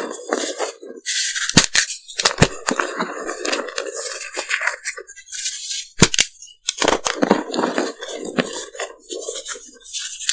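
Large pieces of reformed gym chalk being crushed and crumbled: a gritty crunching broken by several sharp cracks as the pieces snap.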